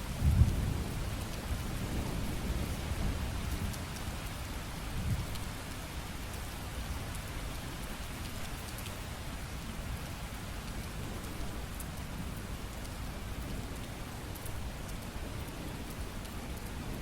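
Steady rain falling, with faint scattered drop ticks. A low rumble runs under it for the first few seconds, loudest about half a second in, then the rain carries on evenly.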